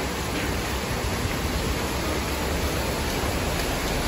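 Heavy typhoon rain pouring steadily, an even hiss with a low rumble of wind buffeting the microphone.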